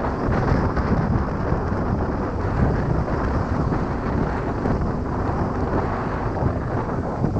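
Wind buffeting the microphone of a camera on a moving motorcycle, a steady rushing rumble with engine and road noise mixed in underneath.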